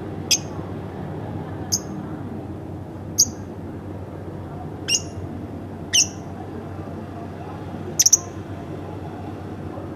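Pet lovebird giving short, high-pitched single chirps, one every second or two, with a quick cluster of two or three about eight seconds in.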